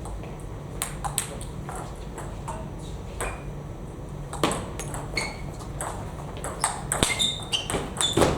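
Table tennis rally: the celluloid-type ball clicking off bats and table in a quick, irregular series of sharp knocks, with a few short high squeaks in the second half.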